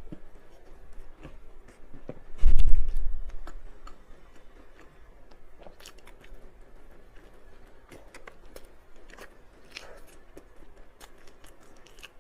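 A person chewing and biting into a soft scallion bread roll, with scattered small mouth clicks. About two and a half seconds in there is one loud, deep thump.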